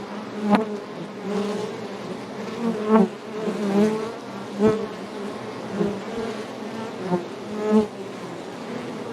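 Honey bees buzzing around their hive in a steady drone, swelling louder several times as single bees fly close.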